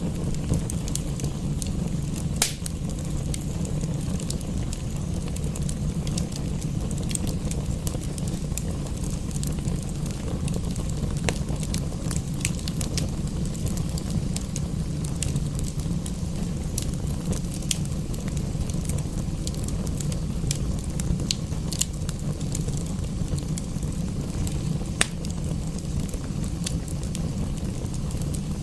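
Wood fire crackling in a fireplace, scattered sharp pops over a steady low rumble, with two louder pops about two seconds in and near the end.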